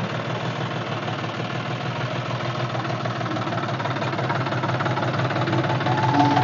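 Diesel tractor engine idling steadily with a fast, even knock, growing a little louder near the end.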